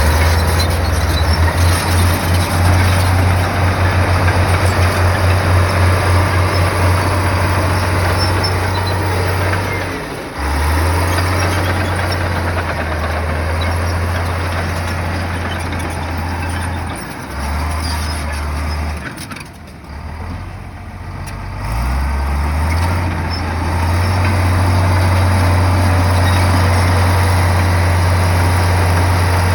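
Heavy bulldozer's diesel engine running with a deep drone, pulsing in the first few seconds. It drops away briefly about ten seconds in and again for a few seconds near the middle, then comes back up and runs steadily.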